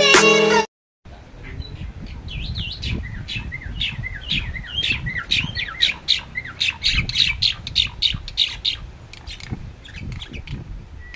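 Intro music cuts off abruptly in the first second. Then a jalak (Indonesian starling) chatters in a fast run of whistled and squawking notes, several a second, over a low rumble, and stops about a second before the end.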